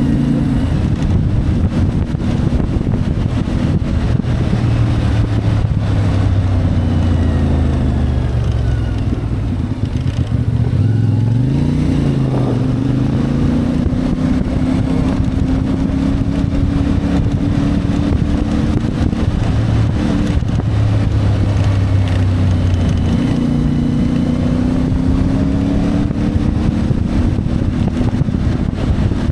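CFMoto 450MT's parallel-twin engine running under way, heard from on the bike with wind and road noise. The engine note falls off about ten seconds in, then rises again as the bike accelerates, and holds fairly steady for the rest.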